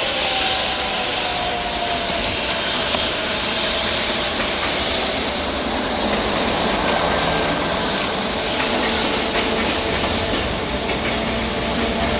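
Freight train hauled by an EF67 electric locomotive running by: a steady rush of wheels on rail, with a faint steady whine from the locomotive.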